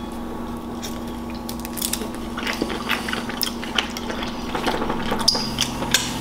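Two people chewing cooked shrimp, with small mouth clicks that come thicker from about two seconds in, over a steady low hum of room air conditioning.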